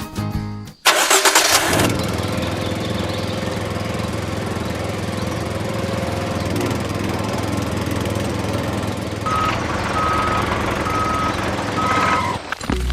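A small engine starts with a sudden loud burst about a second in, then runs steadily. Near the end, four short, evenly spaced high beeps sound over it.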